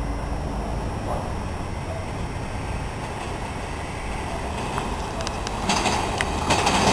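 Electric commuter train approaching along the tracks, its rumble slowly growing; in the last second or so the wheel-on-rail noise swells sharply, with clicks from the rails.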